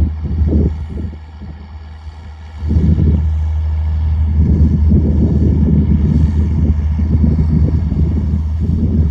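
Straight-piped John Deere 4630's six-cylinder diesel running, a deep, loud exhaust note. It drops off about a second in and comes back strongly just before the three-second mark, holding steady after that.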